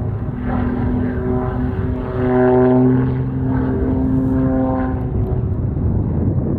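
Extra 300L aerobatic monoplane's piston engine and propeller droning steadily with a clear pitch as it flies past, loudest about two to three seconds in and fading near the end.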